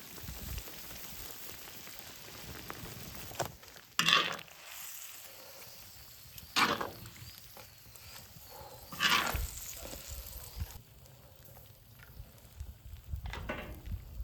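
Food sizzling on a cast-iron cauldron lid over a wood fire, with three loud, short stirring strokes a few seconds apart. The sizzle drops quieter about ten and a half seconds in, and there are a couple of smaller stirring sounds near the end.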